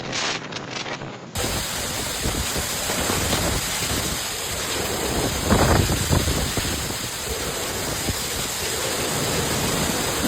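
Heavy storm rain and hail pelting down in a dense, steady hiss, with wind. A louder low surge comes about five and a half seconds in.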